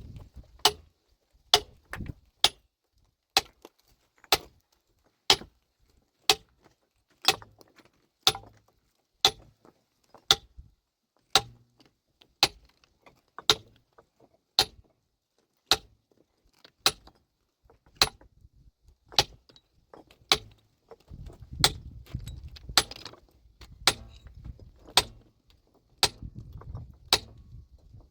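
A metal tool striking stone over and over, about once a second: sharp, ringing clinks as the rock is broken up.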